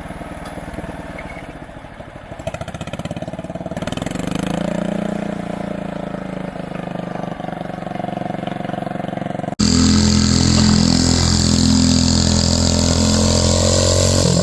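John Deere 210 lawn tractor engine running, speeding up with a rising pitch about four seconds in. After a sudden cut about two-thirds through, it runs louder and steady.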